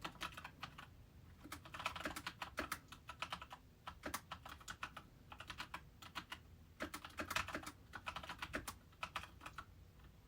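Typing on a computer keyboard: quick keystrokes in short runs with brief pauses between, stopping shortly before the end.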